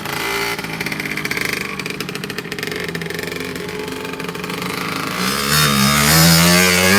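Dirt bike engine running, then accelerating from about five seconds in, its pitch climbing and growing louder toward the end.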